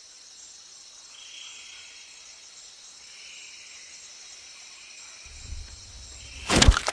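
Steady high-pitched insect chirring, typical of crickets, with fainter swells twice a little lower in pitch. Near the end a low rumble comes in, followed by a sudden loud burst of noise.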